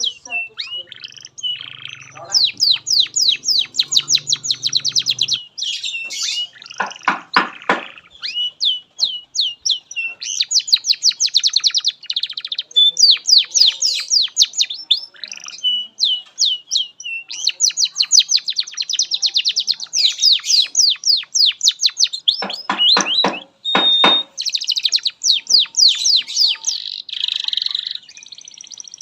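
Domestic canary singing a long, unbroken song of rapid trills, with two lower rattling rolls in the middle and near the end.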